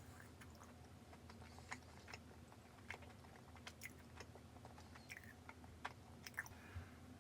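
A person quietly chewing a mouthful of chocolate tart, close to the microphone, with faint, irregular little clicks and smacks.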